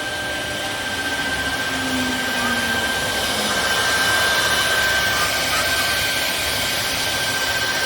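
CNC router spindle running with a steady high whine while the bit carves wood, over a constant rushing noise.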